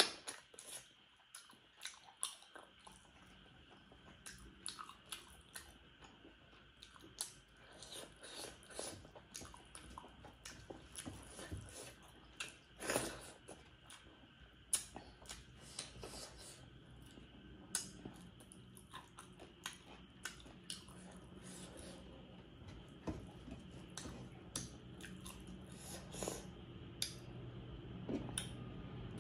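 A person chewing fatty pork close to the microphone: wet mouth clicks, smacks and bites come at irregular intervals throughout. A faint low hum builds up underneath in the second half.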